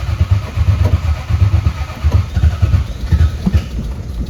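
1966 Austin-Healey 3000 BJ8's straight-six engine running unevenly just after a cold start without choke, its exhaust beat lumpy and irregular, evening out a little near the end.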